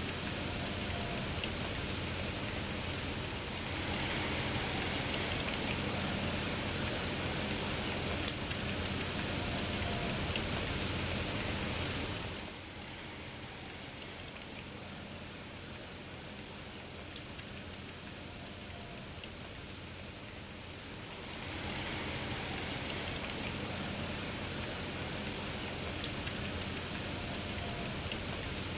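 Steady rain falling, with three sharp single taps standing out. The rain softens for about nine seconds midway, then picks up again.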